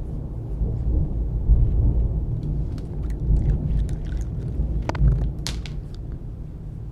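Thunder rumbling low and continuously, with sharp scattered clicks of a dog gnawing on a chew, the two loudest about five seconds in.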